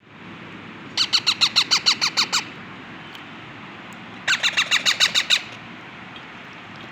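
Baby parrots giving two rapid bursts of short, harsh calls, about nine a second: the begging calls of chicks being hand-fed.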